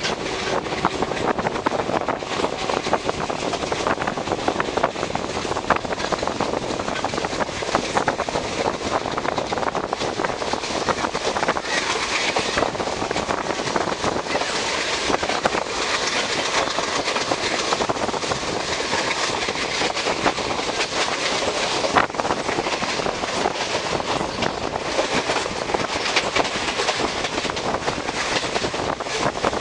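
Indian Railways passenger train running along the track, heard from an open coach door: a steady rumble and rush with the wheels clacking over the rails in frequent short clicks.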